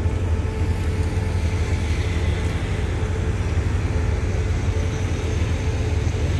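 Passenger train at the platform: a steady low rumble with a faint steady hum above it.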